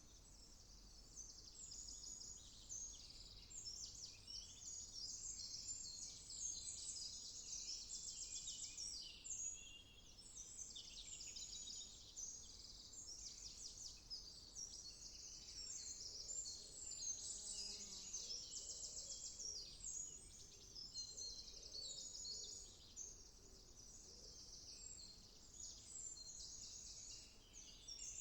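Many songbirds singing at once in a woodland morning chorus: overlapping chirps and rapid trills, with faint background rumble underneath.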